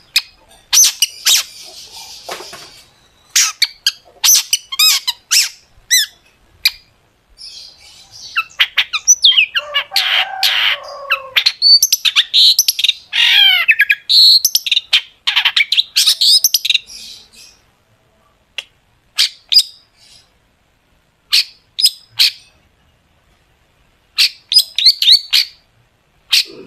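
Long-tailed shrike singing: sharp, quick notes and harsh chatter, densest in the middle, thinning to short, spaced calls in the second half.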